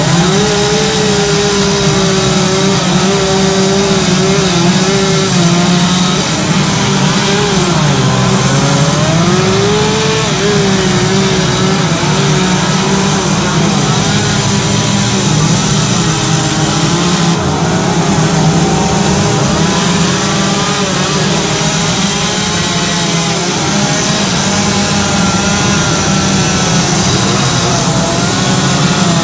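Two-stroke chainsaws running steadily during carving, their engine pitch dipping and climbing every few seconds as the chain bites into wood and frees again.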